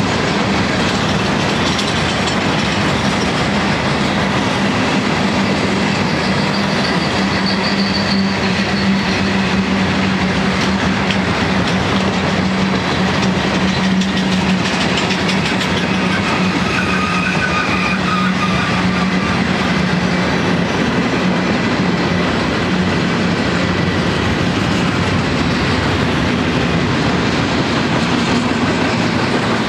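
Freight train's loaded flatcars rolling past at steady speed: continuous loud noise of steel wheels on rail, with a few faint high-pitched squeals.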